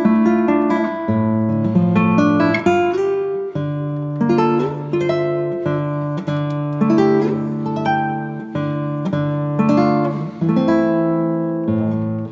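Background music: acoustic guitar picking a melody, note by note, over sustained bass notes.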